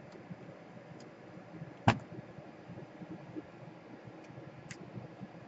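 A single sharp click about two seconds in, with a few faint ticks around it, from handling a laptop while trying to power it up.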